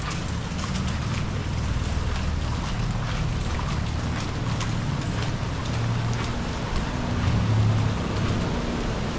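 Rain and breaking sea waves picked up by a GoPro microphone in the rain. Wind buffeting the mic adds a low, uneven rumble, with scattered taps of raindrops over a steady hiss.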